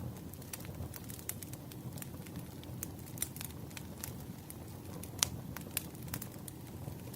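Firewood burning: a steady low rush of flame with irregular sharp crackles and pops, the loudest pop a little after five seconds in.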